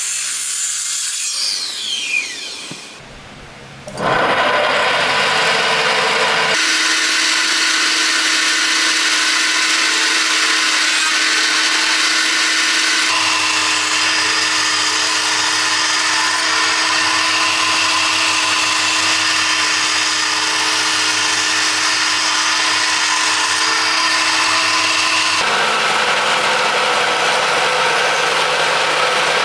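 Electric power-tool motor running steadily under load, working wood. After a brief lull near the start it holds a constant whine, with sudden shifts in its tone a few times.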